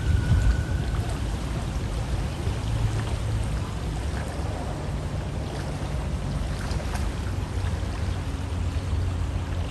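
River water flowing steadily, an even rushing with a deep low rumble.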